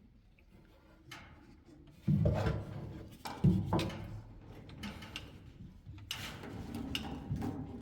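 Knocks and clattering of hard objects being handled, the loudest about two seconds in and again about three and a half seconds in.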